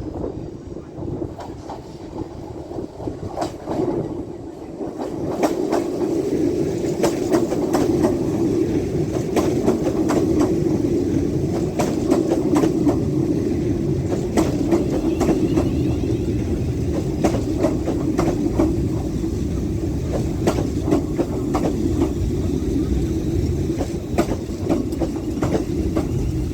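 A train passing, its wheels clicking over rail joints above a steady rumble. It gets louder about five seconds in and stays loud.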